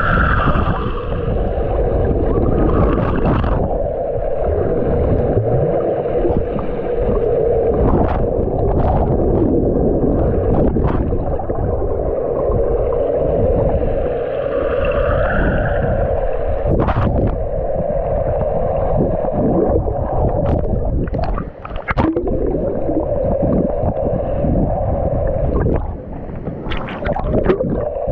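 Camera recording underwater: muffled gurgling and rushing water with a steady droning hum, broken by scattered sharp clicks and knocks.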